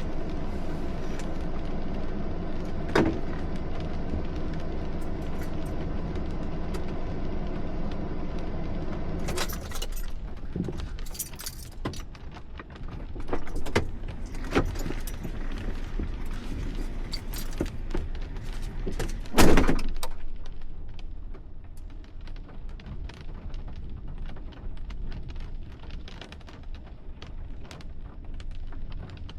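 A vehicle engine running steadily, which stops about ten seconds in. Scattered clicks, jangles and knocks follow, with one loud knock about two-thirds of the way through.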